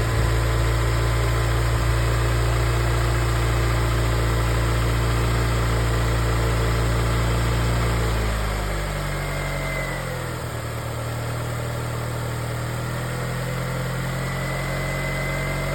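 2006 Honda CR-V's four-cylinder engine idling just after a cold start after sitting for seven years. About eight seconds in, the fast cold idle drops to a lower, slightly quieter steady idle.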